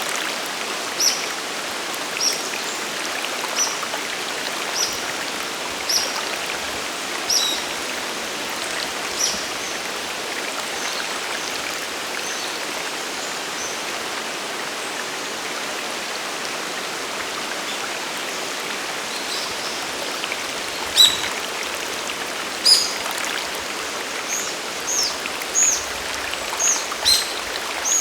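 Steady rush of falling water from a waterfall and mountain stream. A bird calls over it in short, high chirps, about one a second for the first ten seconds, then again more often and louder in the last seven seconds.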